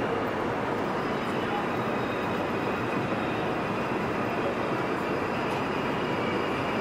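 ICE high-speed train rolling slowly into a platform: a steady, even rumble of the train with faint high thin whining tones above it.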